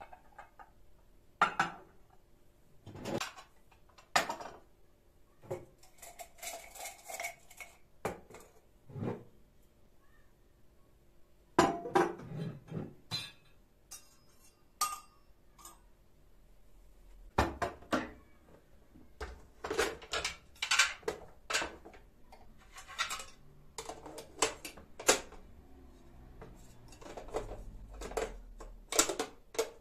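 Irregular clinks and knocks of hard objects being handled, in a small room.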